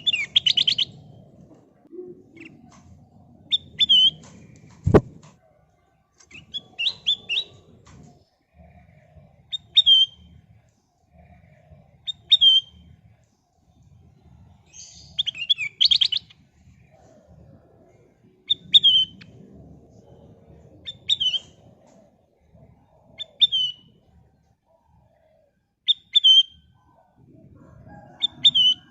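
Kutilang emas bulbul singing short, clear chirping phrases, one about every two to three seconds, over a faint low background rumble. A single sharp click comes about five seconds in.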